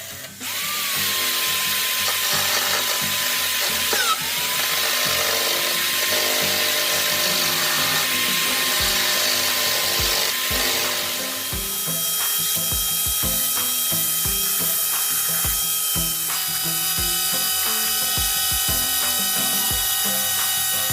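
An electric power tool's motor running steadily, dipping briefly in pitch about four seconds in as if under load, then giving way to background music about eleven seconds in.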